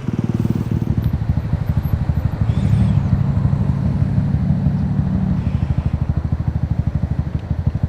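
125cc motorcycle engine running under way, its note rising a little about a second in and easing back about five seconds in.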